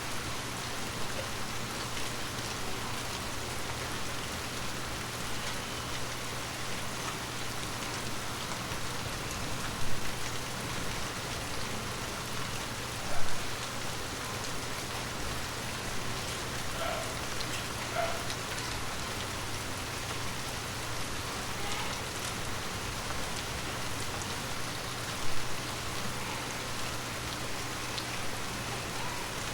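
Rain falling on forest leaves: a steady, even patter, with a few louder single drop hits about ten, thirteen and twenty-five seconds in.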